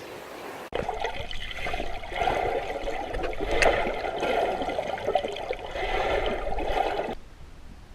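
Sea water washing over a black sand beach, a steady rush of surf that starts abruptly just under a second in and cuts off about seven seconds in.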